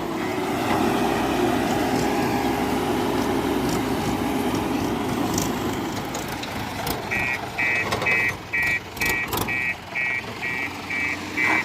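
Diesel engine of a JCB 4DX backhoe loader working under load, its revs rising and falling. About seven seconds in, a reversing alarm starts beeping a little over twice a second, and a few sharp knocks are heard alongside it.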